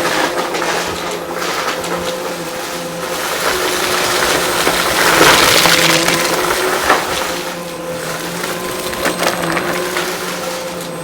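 Vacuum cleaner running with a steady motor hum, crackling as it sucks up crunchy debris.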